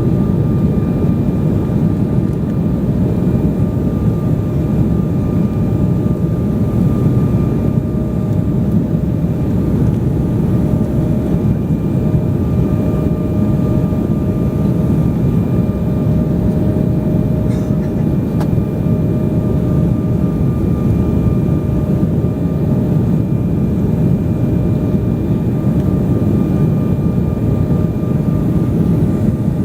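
Steady cabin drone of an airliner in flight: a low rumble of engines and rushing air, with a thin steady whine on top.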